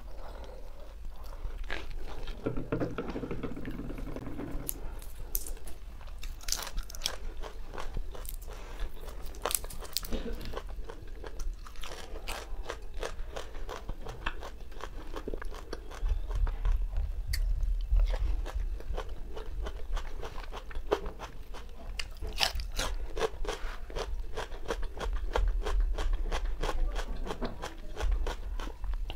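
Eating sounds of roasted chicken being chewed and crunched, with many quick irregular clicks and smacks.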